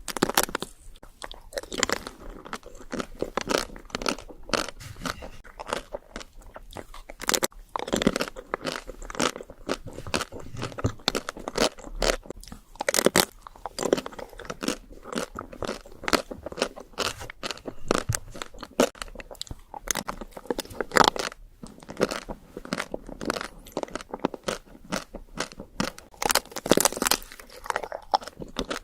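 A person biting and chewing chocolate desserts, with many irregular crunches and louder bites every few seconds.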